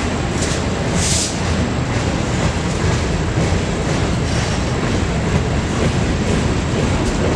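Freight train rolling past, a steady rumble of wheels on rail, with a brief high-pitched burst about a second in.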